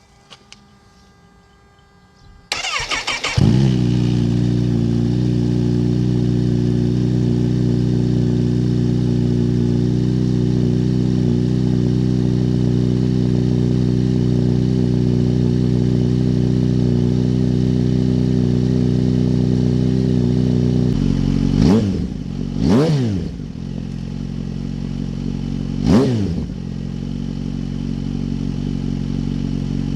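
A Kawasaki Z H2 SE's supercharged inline-four with a Scorpion aftermarket exhaust is cold-started. The starter cranks briefly about two and a half seconds in, and the engine catches into a steady idle. Near the end it is blipped three times, each rev rising and falling quickly, then settles back to idle.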